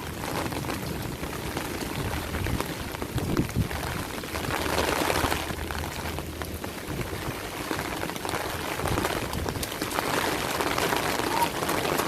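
Steady rain falling and pattering on surfaces, swelling a little louder about halfway through and again near the end.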